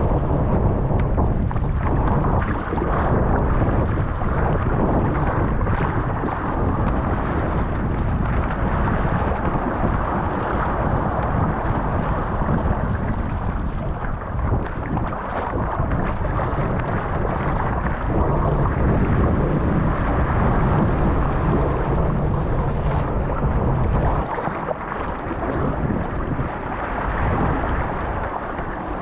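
Strong wind buffeting the microphone over rushing water and waves in 25-30 knot winds, a steady loud roar heavy in low rumble that eases somewhat near the end.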